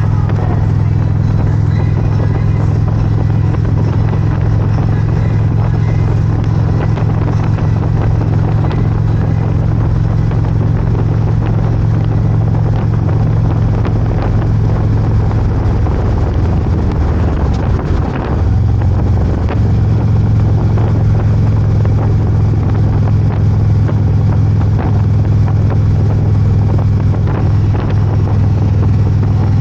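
Motorcycle engine running steadily while riding, with wind noise on the microphone. The engine note dips briefly about eighteen seconds in, then picks up again slightly louder.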